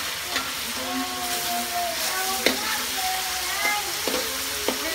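Meat frying in hot oil in a wok with a steady sizzle, stirred with a spatula that clicks and scrapes against the pan a few times.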